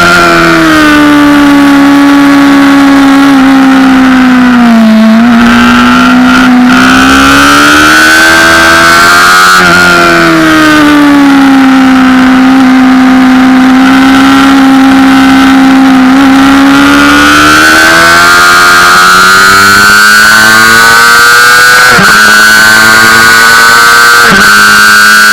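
Honda CBR600RR's inline-four engine at high revs, very loud, its pitch sinking and climbing through the corners. Near the end it climbs steadily and drops sharply twice as it shifts up.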